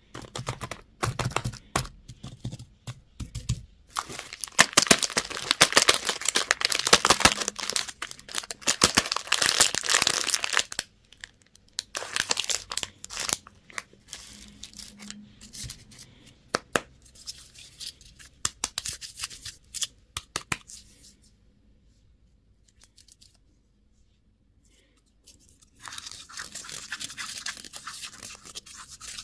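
Plastic candy and toy packaging being torn open and crinkled in dense crackling rustles, loudest in a long stretch from about four to eleven seconds. The sound dies away to near quiet for a few seconds late on, then the crinkling starts again.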